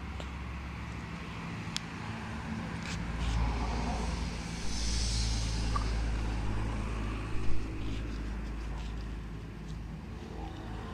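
A motor running with a steady low hum that swells through the middle, with a brief hiss and a few sharp clicks.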